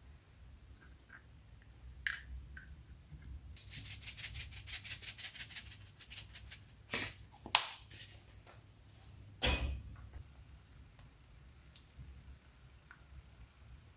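Kitchen utensil sounds: a fast rattling run of clicks for about three seconds, then a few sharp knocks.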